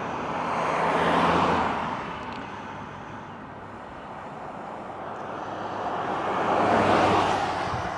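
Two vehicles passing on the road one after the other, tyre and engine noise swelling and fading: the first peaks about a second in, the second rises toward the end.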